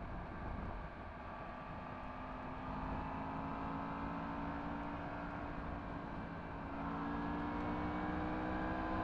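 Yamaha MT-10 SP's crossplane inline-four with an Akrapovič exhaust, heard on the move with wind noise on the microphone. A few seconds in the engine note comes up clearly and rises slowly as the bike accelerates.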